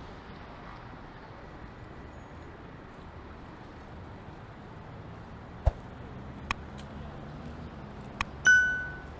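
Steady street traffic noise, broken by a few sharp clicks and then, near the end, a single bright bell ding that rings out and fades over about half a second.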